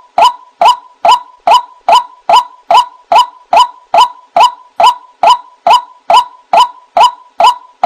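White-breasted waterhen (ruak-ruak) call: a short, sharp note repeated evenly a little over twice a second, each note the same, as played on a bird-lure recording.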